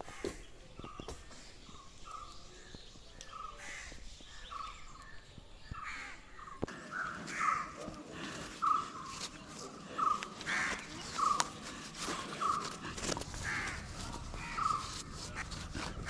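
A bird calling over and over in a steady series of short calls, about three every two seconds, growing louder about six seconds in, with a few faint clicks.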